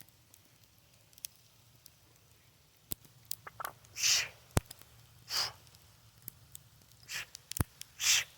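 A lifter's sharp, hissing breaths, four in the second half, spaced a second or two apart, during a set of heavy kettlebell overhead presses, with a few sharp clicks among them.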